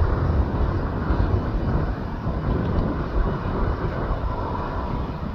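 Jet airliner engines rumbling steadily.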